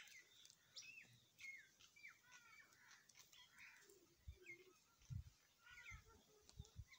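Faint bird chirps: short downward-sliding whistles repeating about twice a second, with a few low bumps on the microphone near the end.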